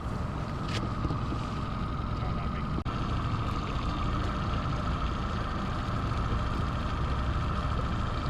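Boat motor running steadily at slow trolling speed: an even hum over a low rumble.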